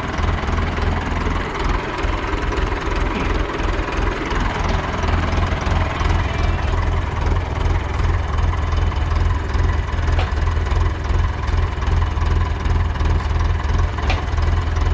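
Engine idling steadily with a low, even hum, and a couple of faint clicks.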